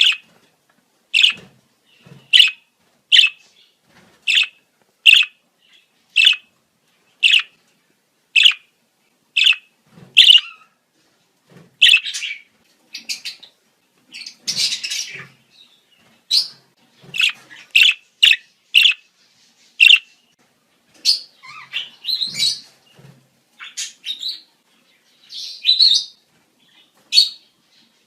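Budgerigars giving breeding-season calls: short sharp chirps at about one a second. After about ten seconds they give way to a busier, irregular mix of chirps and longer chattering warbles.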